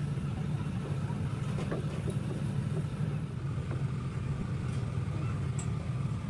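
Old Mercedes-Benz truck diesel engine running steadily after being restarted, a low even rumble with a few faint ticks over it.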